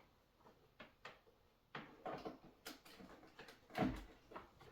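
Light clicks, taps and knocks of hands handling a vintage Pfaff 130 sewing machine and its power cord, with a duller thump about four seconds in.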